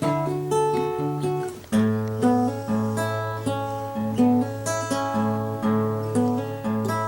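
Background music: acoustic guitar playing plucked notes over a sustained bass note, with the bass shifting lower about two seconds in.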